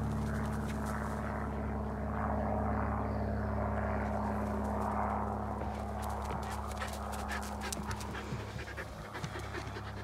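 Samoyed panting, with a steady low hum underneath. In the second half, short crunching steps on a wood-chip garden path come in.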